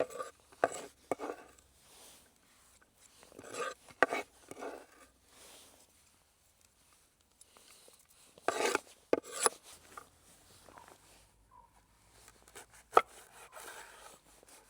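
Food preparation on a wooden surface: irregular rubbing and scraping strokes with a few sharp knocks, the loudest near the end.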